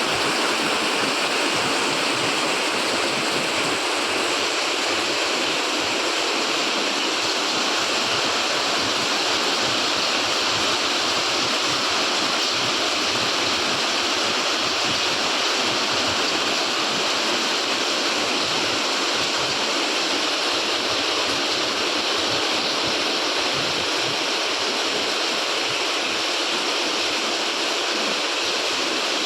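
Heavy rain pouring down hard, a dense, steady hiss that holds even throughout.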